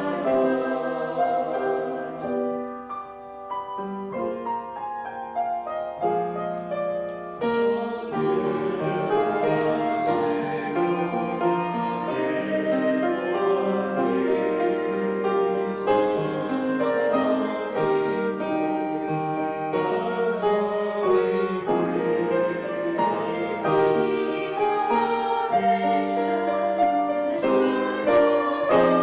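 Church choir singing with piano accompaniment.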